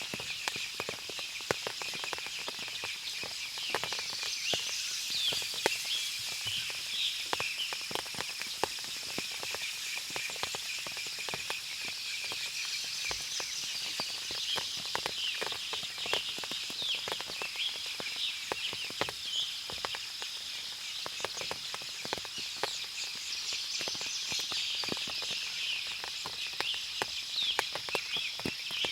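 Forest ambience after rain: many birds chirping and calling over a steady high-pitched hiss, with frequent small ticks and clicks.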